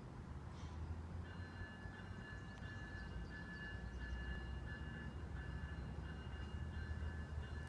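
Distant GO Transit train rumbling low and steadily, with a faint steady high ringing that comes in about a second in.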